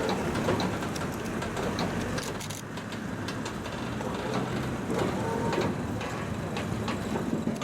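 A heavy road transport vehicle's diesel engine running steadily, with scattered clicks and rattles.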